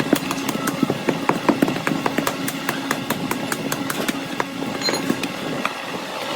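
Workshop noise: a steady machine hum with frequent sharp clicks and knocks throughout.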